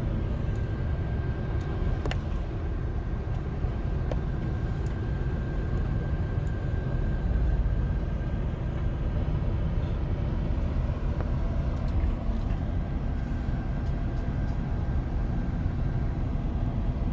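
Steady low rumble of a vehicle in motion, continuous throughout, with a few faint clicks.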